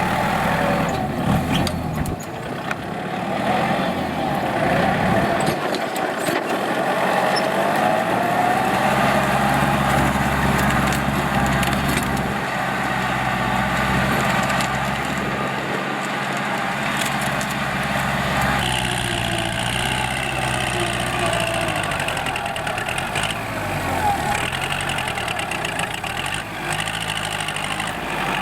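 Diesel tractor engine running under working load, its pitch slowly rising and falling. The sound changes character about two-thirds of the way in.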